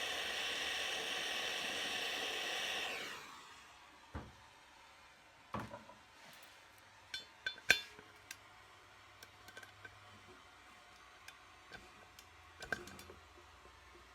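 Handheld gas torch hissing steadily as it heats a wheel nut, shut off about three seconds in. Then come scattered metallic clicks and clinks of tools on the metal, the sharpest a little past the middle.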